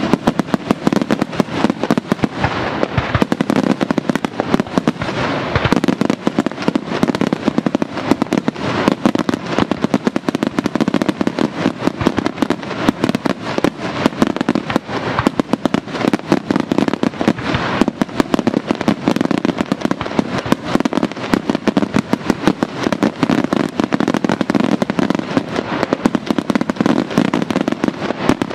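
Daytime fireworks: a dense, continuous barrage of bangs and crackling reports from aerial shells bursting overhead, many reports a second.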